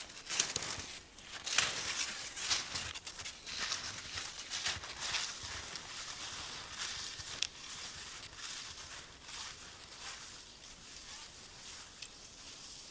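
Footsteps crunching through wet snow and forest litter, irregular and growing steadily fainter as the walker moves away.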